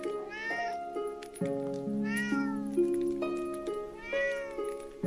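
A cat meows three times, about two seconds apart, each meow a short rising-then-falling call. Background music with held, plucked notes plays throughout.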